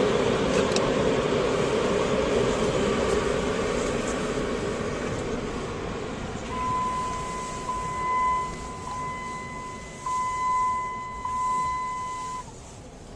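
Automatic car wash machinery running with a loud even rush that fades away over the first half, followed by a steady high electronic tone that sounds with short breaks for about six seconds, then stops.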